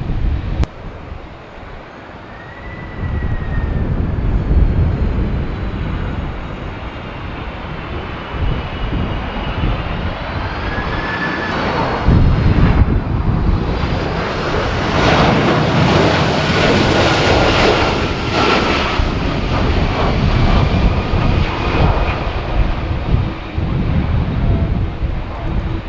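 Jet airliner's engines passing by: a turbine whine whose tones slide in pitch, swelling to a loud roar about halfway through and then easing off. Gusty wind buffets the microphone underneath.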